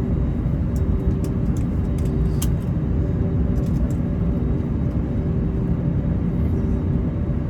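Cabin noise inside an Airbus A321: a steady low rumble from the engines and airframe, with a constant hum and a few faint clicks.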